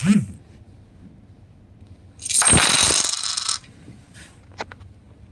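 A burst of jingling coins, about a second and a half long, from a money or donation notification sound, preceded by a short sound at the very start.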